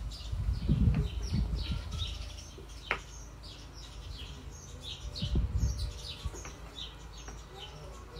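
Small birds chirping over and over, many short falling chirps. Low thuds come about a second in and again around five seconds, with a single sharp click near three seconds.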